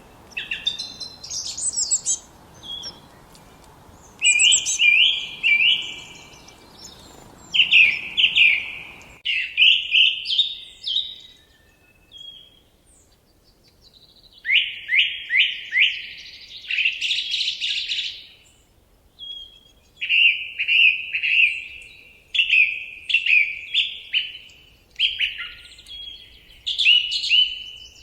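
Forest songbirds singing: repeated short phrases of quick chirping notes, with brief pauses between phrases. A faint low background hiss under the song stops abruptly about nine seconds in.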